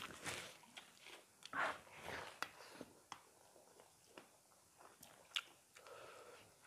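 Close chewing and biting of people eating rice and chicken curry by hand: soft, irregular wet clicks and mouth noises, with a couple of louder ones about a second and a half and two seconds in.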